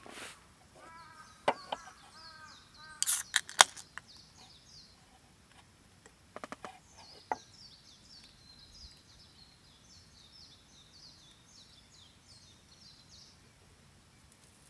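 Birds chirping and singing in quick short notes. Several sharp clicks and knocks come in the first few seconds, the loudest a cluster about three to three and a half seconds in.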